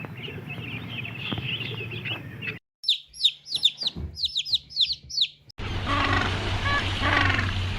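Birds chirping in short clips cut together: first a noisy stretch of high twittering, then about a dozen sharp, quick falling chirps. About five and a half seconds in, it cuts abruptly to louder animal calls over a low hum.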